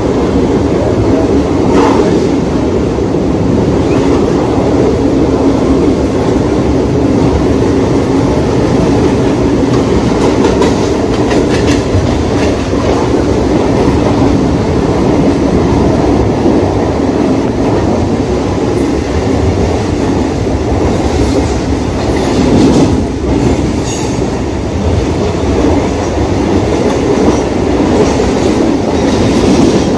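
Mumbai suburban local train running at speed, heard from inside the coach: a steady loud rumble of wheels on the rails. Runs of sharp clickety-clack come about a third of the way in and again, louder, about two-thirds of the way in.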